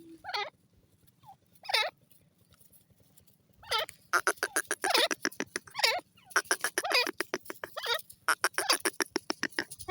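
Grey francolin (desi teetar) calling. A couple of separate calls come first, then from about four seconds in a fast run of sharp, clicking notes, with louder ringing calls roughly once a second.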